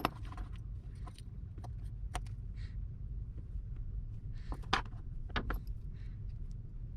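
Scattered small clicks and taps of tools and tiny parts being handled during drone camera disassembly, over a steady low hum. The sharpest click comes about three quarters of the way through.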